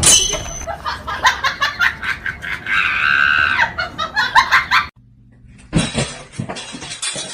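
People laughing in quick short bursts, with a high-pitched squeal about three seconds in. The sound breaks off suddenly just before five seconds, and more short bursts of laughter follow.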